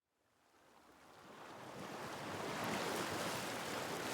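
A rushing noise, like surf or wind, that swells up gradually from silence.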